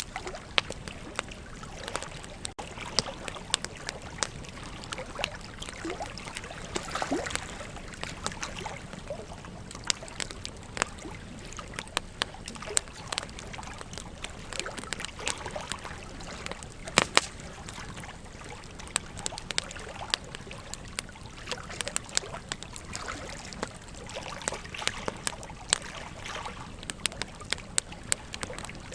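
Wood campfire crackling, with irregular sharp pops throughout, the loudest about 17 seconds in, over the steady rush of a flowing river.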